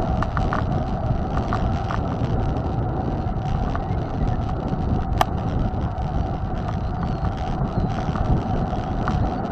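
Wind rushing over the microphone and tyre rumble from a mountain bike being ridden, with a thin steady whine and a sharp click about five seconds in.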